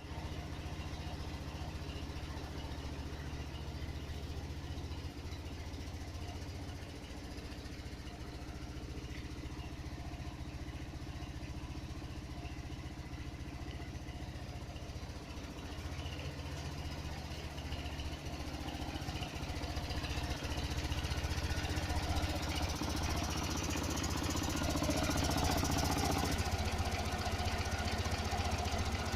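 Ural motorcycle's custom 700 cc water-cooled engine running steadily at idle, then speeding up and getting louder about two-thirds of the way through.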